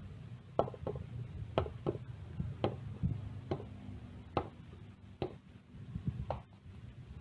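About nine sharp taps or knocks, coming roughly once a second, from hand tools at work on a punctured motorcycle tyre during the repair, over a low background rumble.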